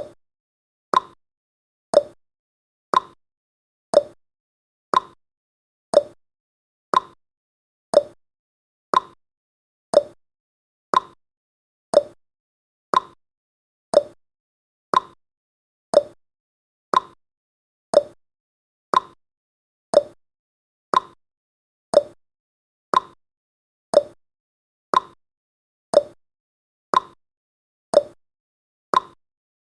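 Countdown timer's clock-tick sound effect: one short tick every second, alternating higher and lower like a tick-tock, with silence between ticks.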